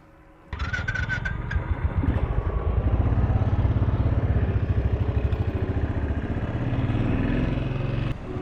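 Motorcycle engine running with a rapid, even pulse of firing strokes. It comes in suddenly about half a second in, grows louder over the next couple of seconds, then holds steady and cuts off just before the end.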